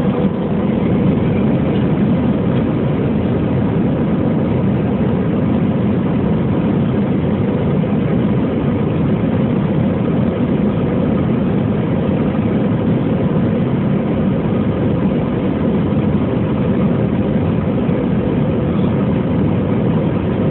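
Airbus A320-200 jet engines and airflow heard from inside the passenger cabin: a steady, loud, low rush with a faint even hum, stepping up slightly just after the start.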